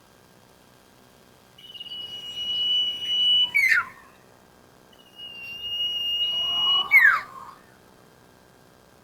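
Sirtu (green iora) song: two long, steady, high whistled notes, each ending in a quick downward slur, with a pause of about a second and a half between them.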